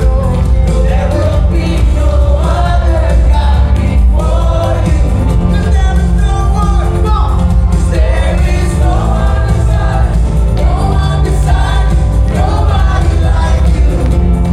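Live worship band playing with singers, over a heavy steady bass.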